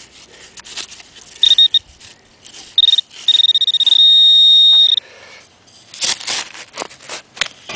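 Garrett Pro-Pointer AT pinpointer beeping as it is worked through dug sand over a target: two short high beeps, then a fast-pulsing tone held for about a second and a half. Sand is scraped and dug between the beeps.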